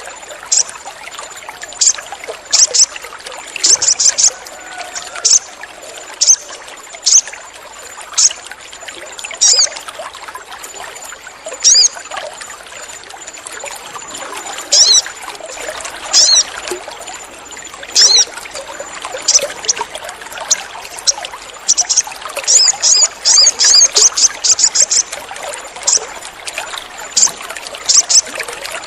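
Sogon bird calling: many short, high, sharp chirps, single or in quick runs, with dense rapid runs near the end, over a steady background of trickling water.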